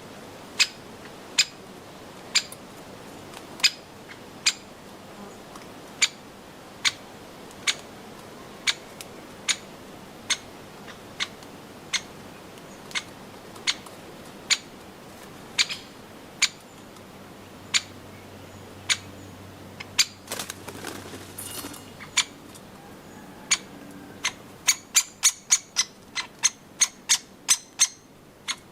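Woodpecker pecking at nuts with its beak: sharp single knocks about one a second, quickening to a rapid run of about three a second near the end. A short rustle about twenty seconds in.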